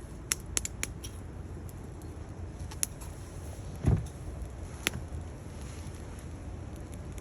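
Wood fire in a stainless-steel Bushbox XL stove crackling, with a few sharp pops, three in quick succession at the start and single ones later. One louder dull thump comes just before the middle.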